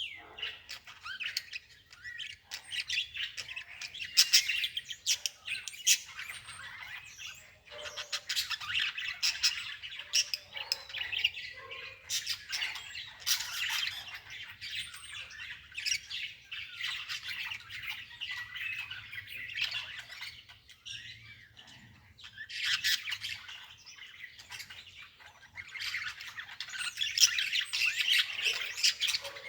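Small birds chirping and squawking in rapid, chattering bursts that come and go.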